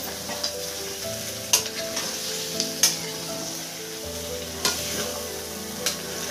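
Chicken and potato curry sizzling in a metal wok as a spatula stirs it. The spatula knocks against the pan four times.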